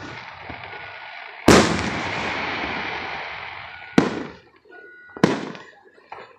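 Aerial firework shells bursting. A loud bang about a second and a half in is followed by a long rumbling tail, and two sharper bangs come at about four and five seconds in.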